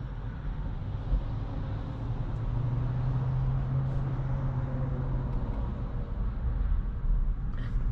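Low rumble of road and traffic noise heard inside a car's cabin as the car slows in stop-and-go traffic. A steady low hum joins for a few seconds in the middle.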